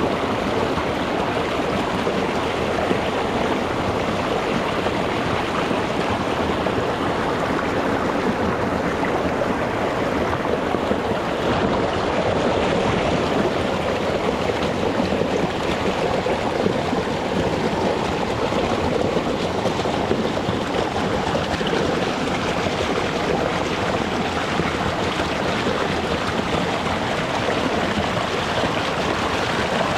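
Small rocky mountain stream rushing and splashing over rocks, a steady, even flow.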